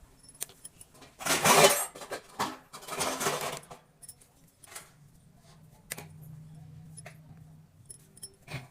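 Small handling noises, scattered clicks and taps, with two short, louder rustling bursts, one just over a second in and one about three seconds in.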